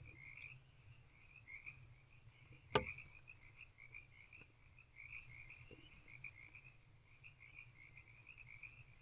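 A chorus of frogs calling steadily in the night, an unbroken pulsing chirr. A single sharp knock stands out about three seconds in.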